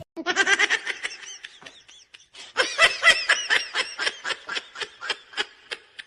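Person laughing hard in a rapid run of short, high-pitched bursts, about five a second, with a brief pause about two seconds in.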